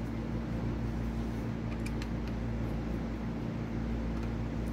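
Steady low mechanical hum, with a few faint light clicks about two seconds in.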